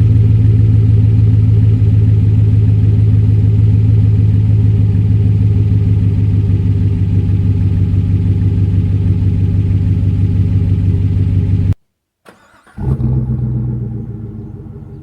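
Chevy 5.3L EcoTec3 V8 exhaust through a Jones JT3030 turbine muffler, running steadily at a constant engine speed. About 12 s in it cuts off abruptly, and after a brief silence a lower rumble starts and fades.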